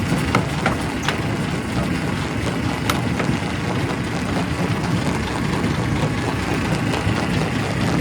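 Primary rock crusher running with a steady heavy rumble, with a few sharp cracks and knocks of rock in the first three seconds.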